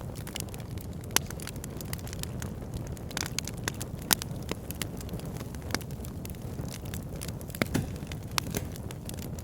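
Fire pit burning with irregular sharp crackles and pops over a steady low rumble of flame, the loudest pops about a second in and about four seconds in.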